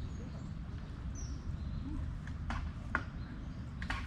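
Outdoor ambience: a steady low rumble with a faint short bird chirp about a second in and a few sharp clicks near the end.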